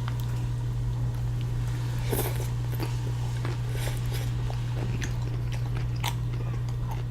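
Close-up mouth sounds of eating wonton soup: chewing with a few soft wet clicks and two short slurping or sniffing hisses, about two and four seconds in. A steady low hum runs underneath.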